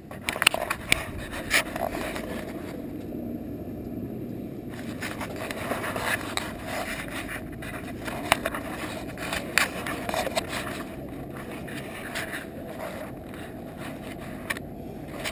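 Whirlybird roof ventilation turbine spinning, a steady rolling, scraping noise with many small irregular clicks and ticks.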